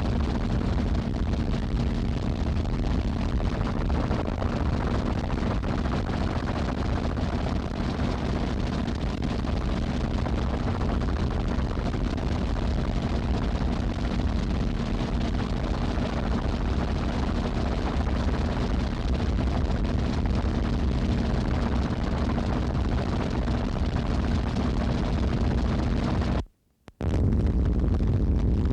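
Steady low rumble of a running engine with a constant hum. It drops out abruptly to silence for about half a second near the end, then resumes.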